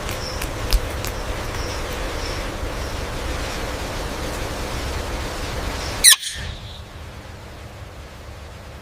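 Steady outdoor background hiss with faint chirps and a few clicks. About six seconds in, a parrot gives one loud, short squawk that sweeps down in pitch, and then the background turns quieter.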